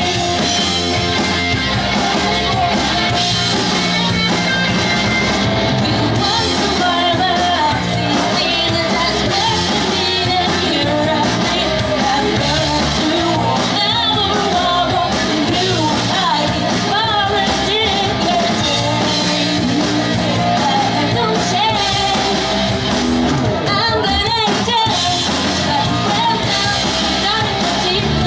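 A pop-punk rock band plays live, with electric guitars, bass and drums under a singer's lead vocal, loud and continuous.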